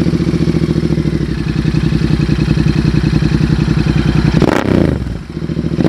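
Royal Enfield Interceptor 650's parallel-twin engine idling steadily through an aftermarket exhaust, with one quick throttle blip about four and a half seconds in, the pitch rising and falling back to idle.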